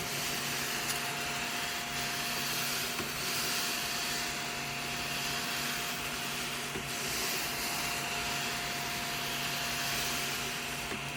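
Small cordless desktop vacuum cleaner running steadily: a constant motor whine over an airy hiss.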